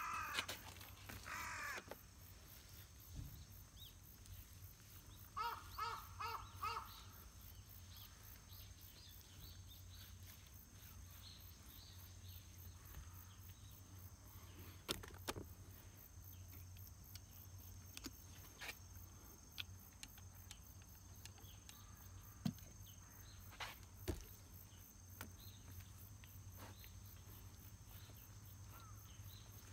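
A bird calling: one call right at the start, then a quick run of about five calls around six seconds in, over a faint low steady hum with a few soft clicks.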